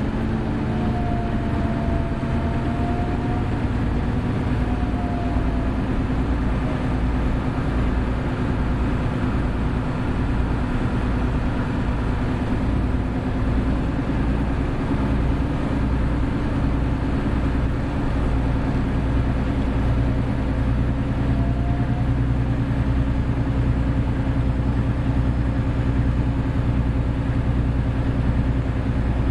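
Hino Blue Ribbon City hybrid city bus running, its diesel engine droning steadily, with the engine note changing about 20 seconds in. Faint whining tones glide briefly near the start and again about 21 seconds in.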